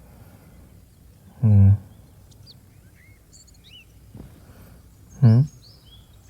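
A low male voice makes two short hums, about a second and a half in and again about five seconds in; these are the loudest sounds. Under them, birds chirp softly in the background ambience: brief high chirps and little gliding calls.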